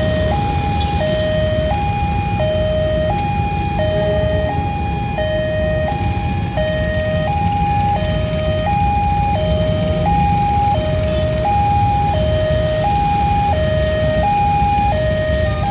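Railway level-crossing warning alarm sounding a two-tone hi-lo signal, switching between a higher and a lower pitch about every 0.7 s while the crossing is closed for a train, over a steady low rumble.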